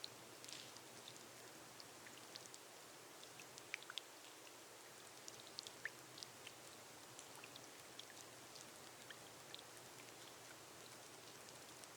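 Faint, steady rain on a glass roof: a soft hiss with irregular individual drops ticking on the glass, a few louder ones about four and six seconds in.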